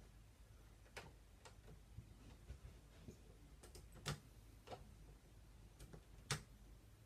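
Near silence with a faint room hum, broken by a few irregular, faint clicks and taps. The loudest comes just after four seconds in and another near the end.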